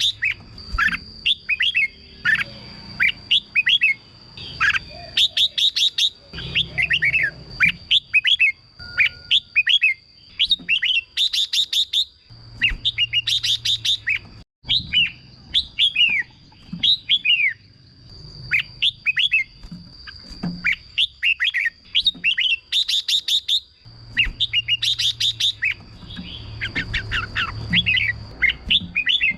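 Red-whiskered bulbul singing: repeated short phrases of quick, descending whistled notes, broken every few seconds by bursts of rapid high clicking chatter. A thin steady high tone runs beneath.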